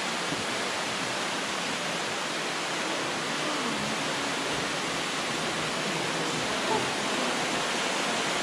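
Ruby Falls underground cave waterfall: a steady, even rush of falling water.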